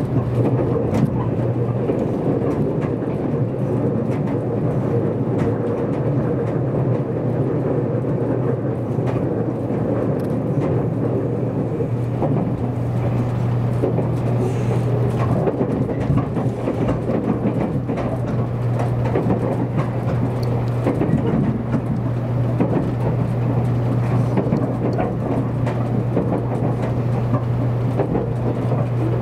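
JR Kyushu 783 series electric limited express running at speed, heard from inside the passenger cabin: steady train running noise with a constant low hum over wheel-on-rail rumble.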